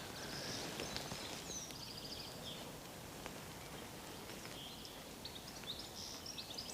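Faint outdoor background: small birds chirping and trilling on and off over a soft, steady hiss.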